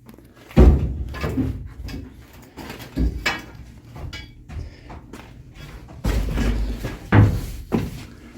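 Four dull thumps with lighter knocks between them, like bumps and steps on the metal of a boat's engine room.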